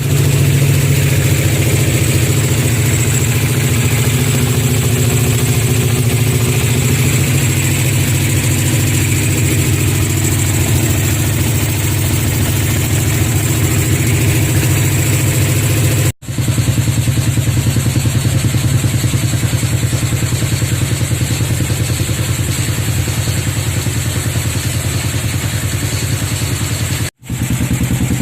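Custom three-cylinder engine built from a Suzuki Satria FU motorcycle running at a steady idle. The sound breaks off for an instant twice, about sixteen and twenty-seven seconds in.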